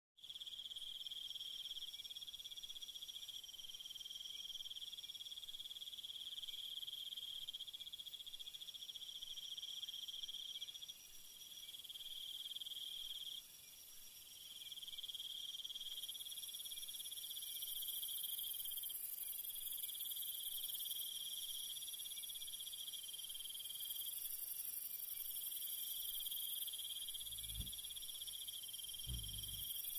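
Insects trilling steadily in overlapping high-pitched layers that swell and drop back every few seconds. Two brief low thuds come near the end.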